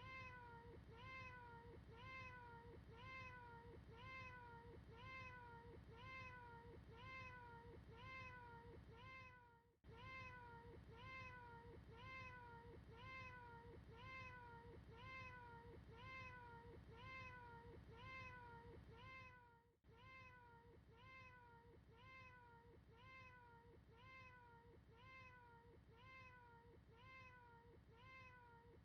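Faint cat meow, one short recorded meow looped over and over at about two a second, each dipping and then curving back up in pitch. The loop breaks off for a moment about ten and twenty seconds in.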